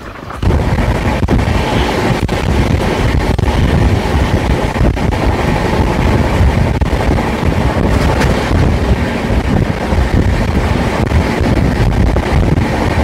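Wind rushing over the microphone and the rumble of a fast-moving passenger train's wheels on the rails, heard from an open coach door, with faint regular clicks. It gets suddenly louder about half a second in and then stays steady.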